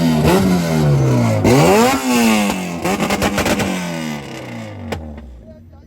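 Two tuned Honda four-cylinder race cars, an all-motor F-series and a turbocharged B-series, going past at full throttle in a drag race. Each engine note drops in pitch as the car goes by, the second about a second and a half after the first, and then fades into the distance. There are a couple of sharp clicks near the end.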